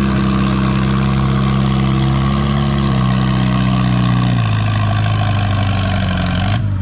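Antique farm tractor engine running hard under load while pulling a weight sled, its steady note dropping in two steps as the engine lugs down.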